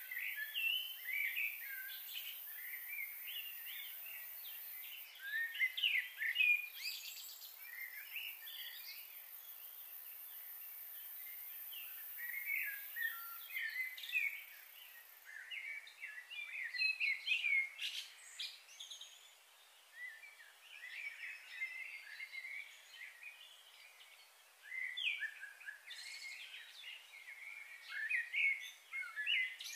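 Birds chirping and calling in quick clusters, with a steady high hiss that stops about halfway through.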